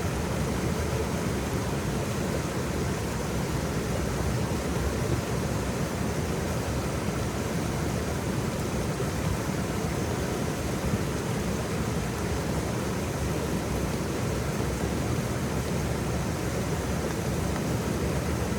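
Waterfall: water falling in a steady, unbroken rush, heavy in the low end, with no distinct splashes or changes.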